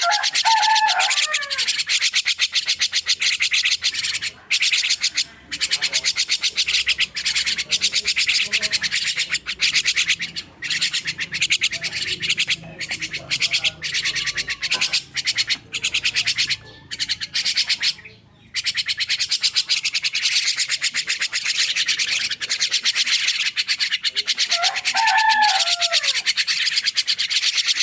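Young starling (jalak) chattering in a rapid, almost unbroken stream of high calls, pausing briefly a few times. A lower, sliding call cuts in about a second in and again near the end.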